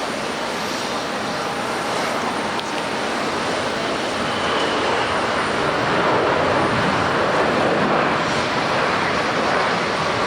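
Jet airliner's engines, a broad rushing rumble that builds gradually louder toward the middle and stays high.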